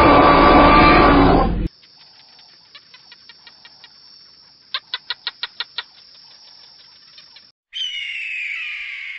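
A loud, rough animal roar that cuts off suddenly about a second and a half in. It is followed by a run of quick clicking calls, with eight louder clicks close together midway, and a falling squawk-like call near the end.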